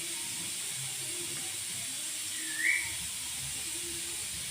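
A parrot gives one short rising whistle about two and a half seconds in, over a steady background hiss.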